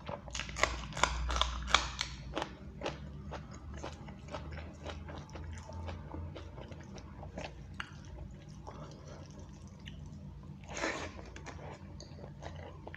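Close-miked eating sounds of a person eating rice and egg curry by hand: wet chewing and lip smacks in quick clicks, loudest and densest in the first two seconds, with a longer noisy burst about eleven seconds in. A steady low hum lies underneath.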